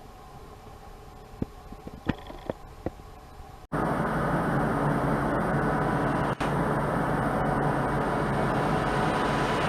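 A few sharp clicks over quiet background, then, at a sudden cut about three and a half seconds in, a train's loud, steady running noise with a low hum.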